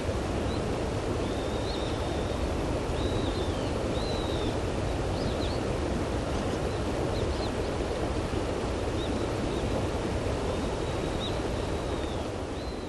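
Small river flowing over stones, a steady rushing of water, with faint high bird chirps now and then.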